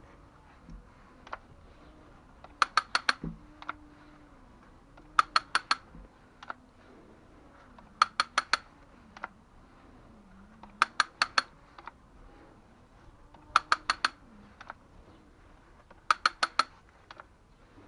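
Ratchet pipe tool clicking as its handle is worked: a quick burst of about four sharp ratchet clicks every two to three seconds, evenly repeated.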